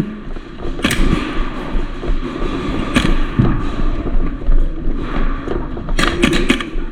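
Airsoft gunfire during a game: single sharp shots about a second in and again around three seconds, then a quick burst of several shots near the end, over the steady rustle and clatter of play.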